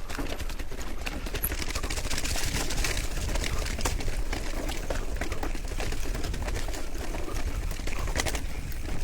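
Wind rumbling on the microphone and a bicycle rattling over a rough road during a fast descent, with many small clicks and knocks from the bike throughout.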